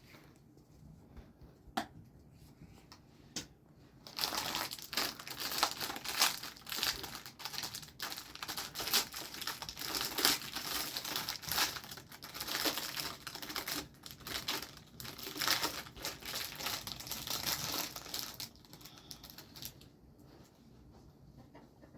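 Crinkling, rustling handling noise, made of many quick crackles, starting about four seconds in and dying away near the end, with a few separate clicks before it.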